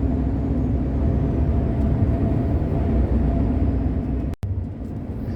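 Steady low drone of a truck's engine and tyres heard inside the cab while driving at highway speed. The sound breaks off for an instant about four seconds in and comes back a little quieter.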